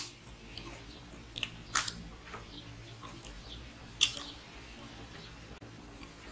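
A person chewing a mouthful of rice and chicken curry eaten by hand, with sharp wet lip smacks and mouth clicks, the loudest about two seconds in and again about four seconds in.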